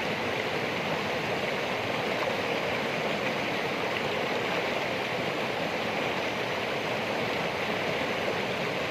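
Running water, a steady unbroken rush like a stream flowing over rocks.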